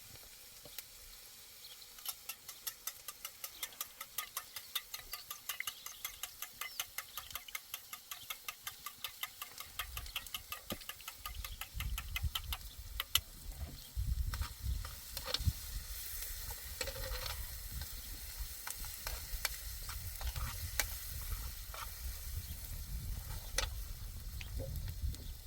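A utensil stirring or scraping in a pot in quick, even strokes, about four to five a second, that break up about halfway into scattered knocks over a low rumble.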